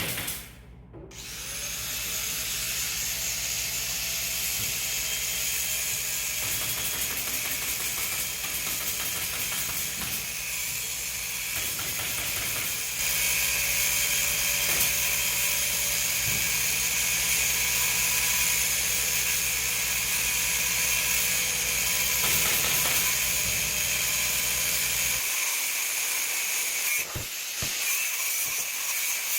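Electric power tool running steadily, a motor whine over a hiss, with a low hum underneath that drops out near the end.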